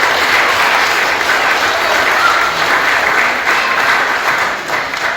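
Wedding guests applauding, a steady round of clapping that tails off near the end.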